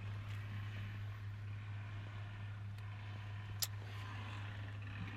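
Steady low hum of an idling vehicle engine, with one faint click about three and a half seconds in.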